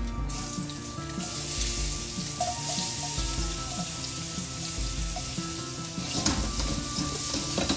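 Chopped garlic and ginger sizzling in hot oil in a stainless steel pan: the sizzle starts just after they drop in and grows into louder crackling about six seconds in as the pan is swirled. Background music plays throughout.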